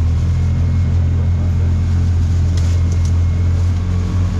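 Side-by-side utility vehicle's engine running at a steady speed, a loud, even low drone, with two brief clicks or rattles a little past halfway.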